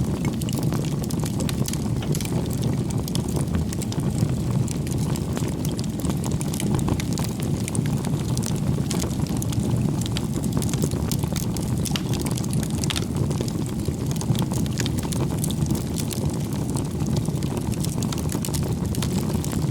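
Wood campfire burning: a steady low rush from the flames with frequent small crackles and pops from the burning firewood.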